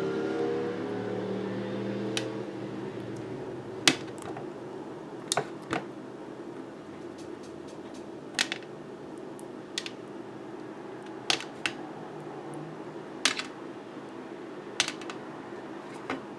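Pot of water with chicken coming to the boil on a stove: a steady low hiss with about a dozen sharp clicks and pops at irregular intervals. A low hum fades out over the first two seconds.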